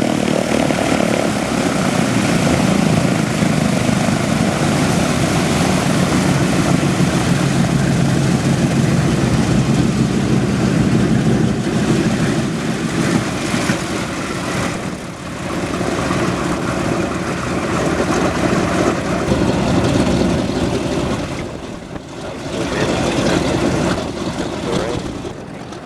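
Propeller aircraft's piston engines running with a loud, steady drone, fading briefly twice in the second half.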